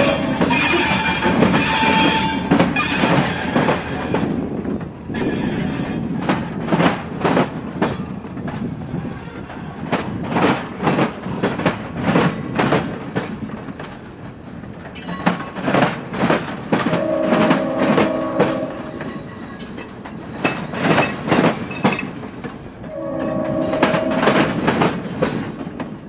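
Passenger train cars rolling past, their wheels clicking over rail joints in a steady clickety-clack. The train's horn sounds twice in the second half, a shorter blast and then a longer one near the end.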